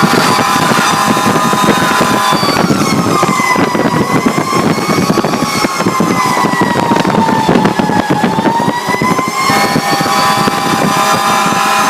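Fire truck siren wailing, slowly falling and rising in pitch, over the loud running of the 2007 Pierce Arrow XT ladder truck's engine and road noise while it drives to a call.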